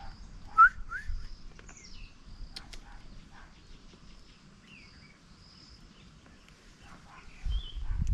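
Forest birds calling: short rising chirps, loudest about half a second in, over broken high-pitched notes that come and go. A few low thuds near the end.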